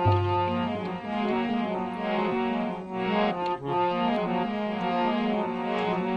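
Instrumental interlude of Indian devotional song: a harmonium plays a melody of held notes that change every fraction of a second.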